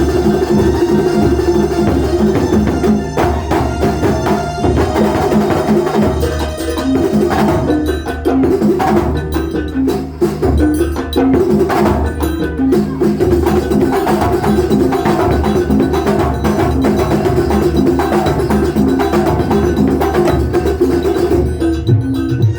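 Live kuntulan ensemble music: hand percussion playing a steady, busy rhythm over sustained melodic instruments.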